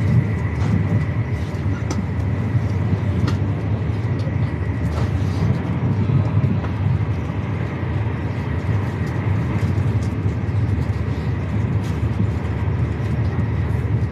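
High-speed train heard from inside the passenger cabin while running, a steady low rumble of wheels and track with a faint steady high whine over it.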